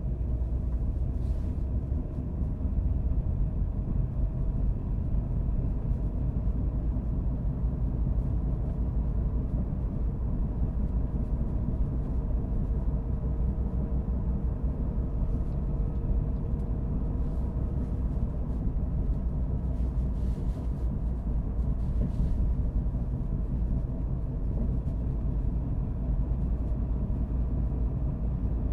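Car driving at a steady speed: a steady low rumble of road and engine, with a few faint ticks.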